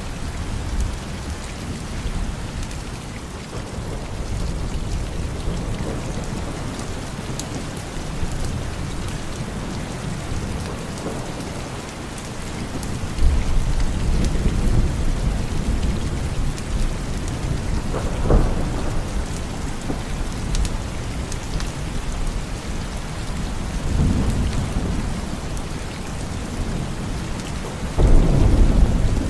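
Steady heavy rain with thunder rumbling several times. The strongest peals come about halfway through and just before the end.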